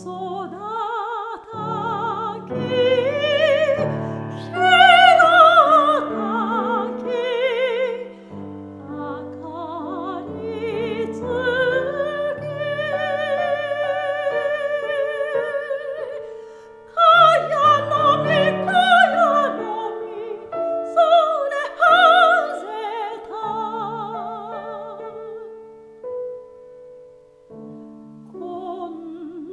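A classically trained soprano singing a Japanese art song with wide vibrato, accompanied by piano. She swells to loud held high notes about five seconds in and again past the middle, then sings more softly near the end.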